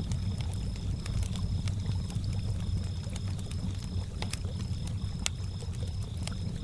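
Campfire crackling with sharp irregular pops, over a steady low rumble of lake water, while crickets chirp in a high, evenly pulsing trill.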